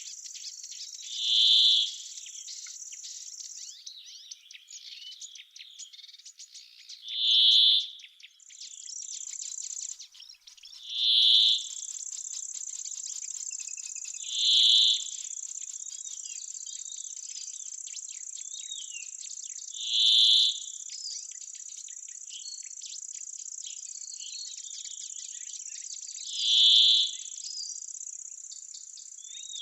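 Summer insect chorus in an oak grove: a steady, high, continuous trill of insects, with small birds chirping. Six times, a louder, lower sound lasting about a second rises and fades, every few seconds.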